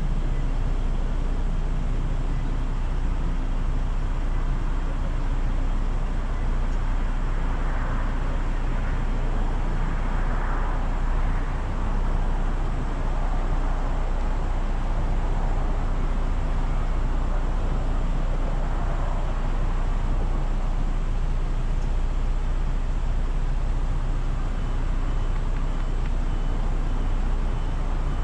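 Car engine idling steadily, a constant low-pitched sound.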